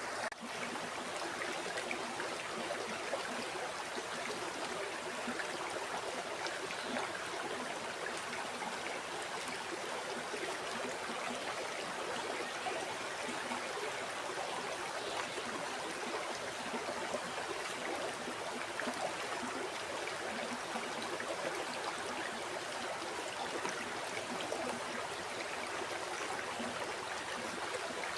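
River water flowing steadily, an even rushing and babbling with no pauses. There is a momentary dip in level just after the start, an edit in the recording.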